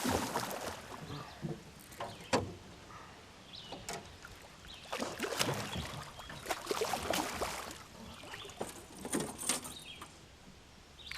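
Irregular splashes and knocks around a small fishing boat, with a busier stretch of them in the middle.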